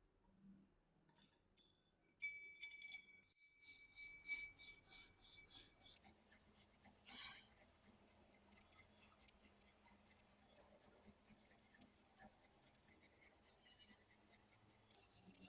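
Faint, rapid scraping strokes by hand, several a second, starting about two seconds in and going on steadily.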